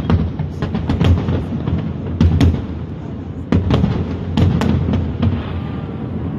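Fireworks going off: a rapid, irregular string of sharp bangs and cracks over a low rumble.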